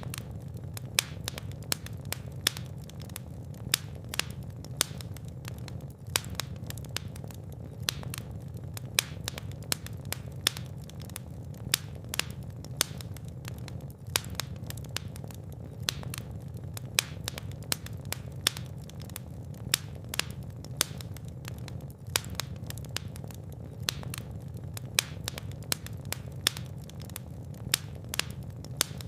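Fire burning in a fireplace, crackling and popping with frequent sharp snaps over a steady low rumble of the flames.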